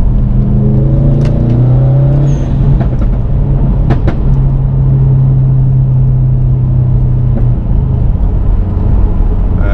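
Subaru WRX STI's turbocharged 2.5-litre flat-four engine heard from inside the cabin, climbing through the revs over the first couple of seconds, then holding a steady drone, and dropping to lower revs about three-quarters of the way through. A couple of sharp clicks sound over it.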